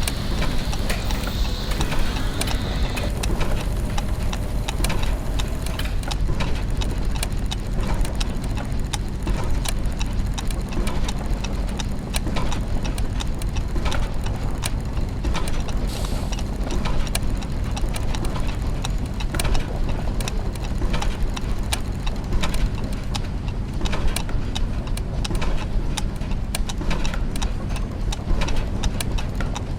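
Clockwork mechanisms and gears ticking and clicking: many overlapping irregular ticks over a steady low mechanical hum, with a brief high tone in the first few seconds.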